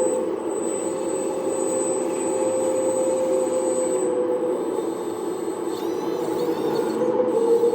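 1/14-scale radio-controlled earthmoving machine running, a steady motor hum that holds level throughout, with a thin high whine above it.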